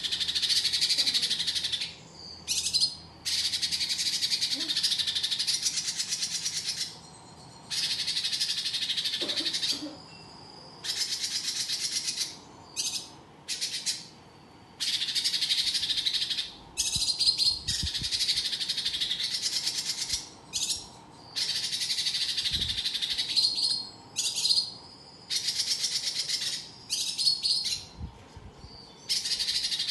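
Cucak cungkok songbird singing in long bursts of rapid, dense chattering, each burst lasting about one to four seconds with short pauses between.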